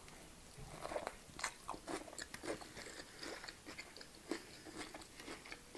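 A person chewing and biting food close to the microphone: soft, irregular crunches and wet mouth clicks, quiet throughout.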